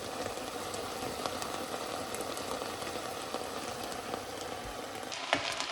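Diced peppers, onions and garlic sweating in oil over moderate heat, a steady gentle sizzle with small crackles: a soft sauté, the vegetables softening without browning.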